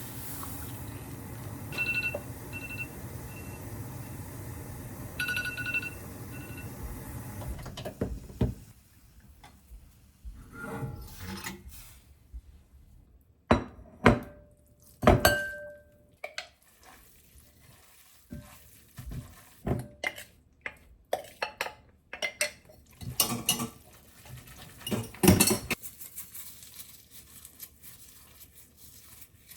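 Kitchen work: dishes and utensils clinking and knocking against each other in separate strikes. For the first eight seconds a steady rushing noise runs underneath, with a few short electronic beeps.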